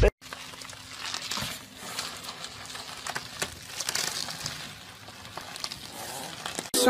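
Plastic bubble wrap crinkling and rustling, with scattered small clicks, as a cat wriggles along inside a tube of it.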